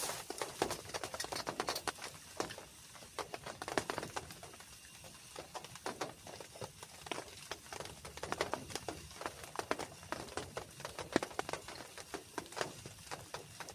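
Raindrops tapping in a dense, irregular patter of separate drops.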